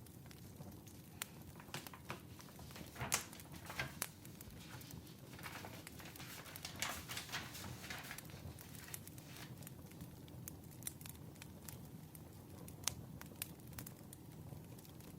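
Wood fire crackling, with scattered sharp pops over a low steady rumble and a busier spell of crackling in the middle.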